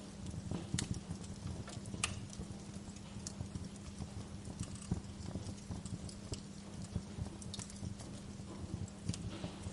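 Wood fire crackling: irregular sharp pops and snaps over a low rumble of burning, with the loudest snaps about one and two seconds in.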